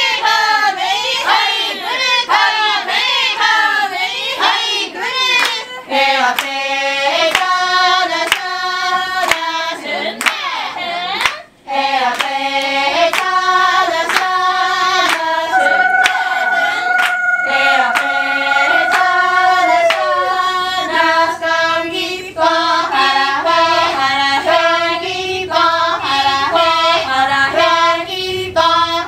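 Traditional Ainu dance song sung in chorus by a group of voices, with steady rhythmic hand clapping keeping the beat. The singing breaks off briefly a little before halfway, and a long note is held in the middle.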